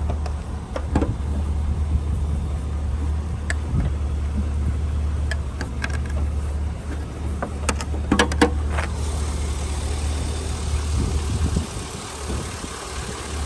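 The 2003 Chevrolet SSR's 5.3-litre V8 idling steadily and quietly, a smooth low hum. Scattered clicks and knocks sound over it, the loudest cluster about eight seconds in.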